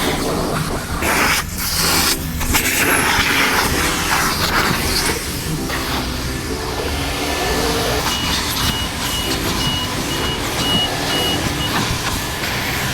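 Self-serve car wash pressure wand spraying water in a steady hiss, with the wash bay's pump humming underneath and a few louder gushes in the first few seconds. Partway through, a string of short high beeps sounds, about two a second, for several seconds.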